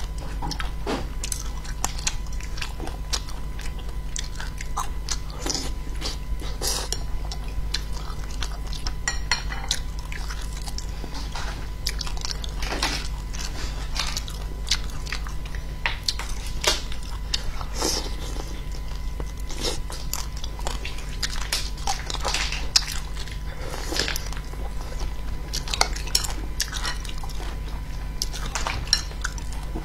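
Close-miked eating: a woman chewing and biting pieces of fish in chili oil, with irregular wet mouth clicks and an occasional tap of chopsticks on the bowl, over a steady low hum.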